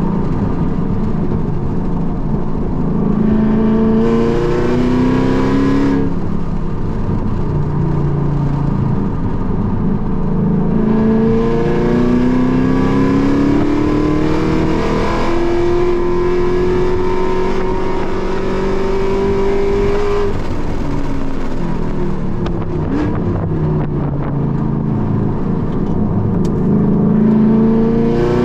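A car's engine heard from inside the cabin at lapping pace, accelerating hard with the pitch climbing and breaking at upshifts, then a long pull. After that the pitch falls as the car slows for a corner, and it climbs again near the end.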